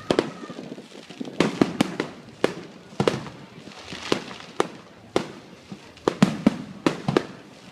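Fireworks going off: a dozen or more sharp bangs and pops at irregular intervals, some in quick clusters.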